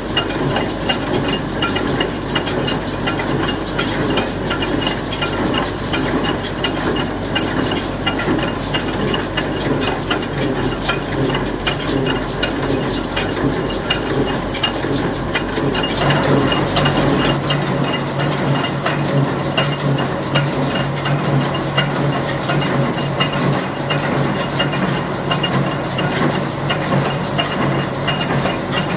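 Steyr 1400a tractor running with a Welger AP12 round baler at work, a steady engine hum under a dense rattling clatter. About halfway through, the engine note grows stronger.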